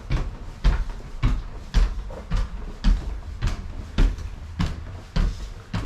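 Footsteps climbing an indoor staircase: even, heavy footfalls, about two a second.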